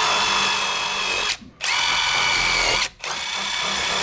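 Handheld power tool running in short runs of about a second, cut off briefly twice, with a high whine that climbs a little as it spins up.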